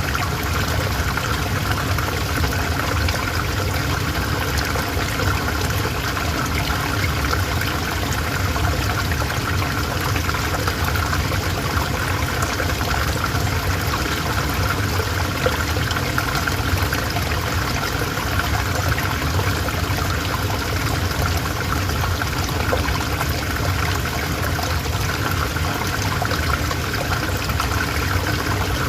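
River water flowing steadily, a continuous rushing and trickling without breaks.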